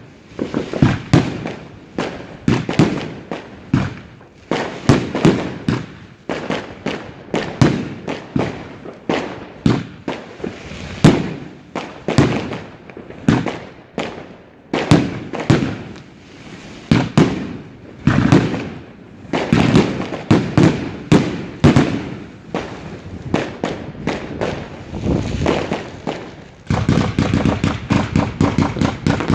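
Fireworks display going off: a rapid run of loud bangs, several a second, each with a short echo. Near the end the bangs close up into a denser, steady stream of rapid reports.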